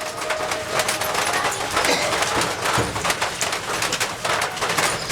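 Birds calling busily in the background, pigeons cooing among them, with many short chirps and clicks.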